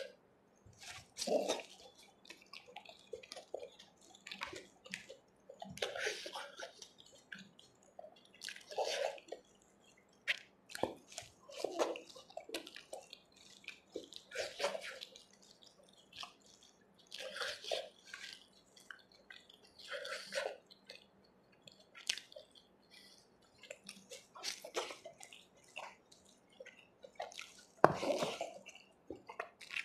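Close-miked wet eating sounds: chewing and mouth smacks on chickpea curry and rice eaten by hand, with fingers squishing the food on the plate, coming in short squelchy bunches every couple of seconds. The loudest bunch comes near the end.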